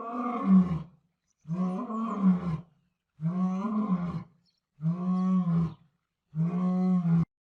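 Lion roaring in a series of five calls, each about a second long, about a second and a half apart.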